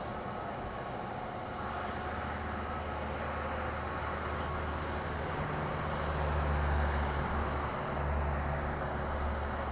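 Airbus A320neo jet engines rumbling and hissing as the airliner passes on its landing. The noise builds to its loudest about two-thirds of the way in and holds there.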